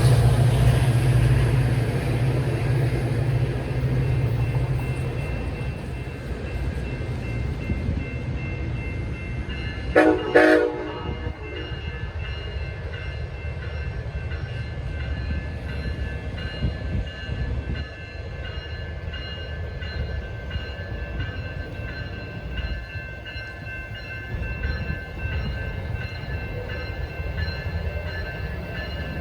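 A train passing on the tracks: a locomotive's low engine drone fades over the first several seconds, a short horn blast sounds about ten seconds in, then the cars keep rolling by with a steady rumble and several high, steady ringing tones.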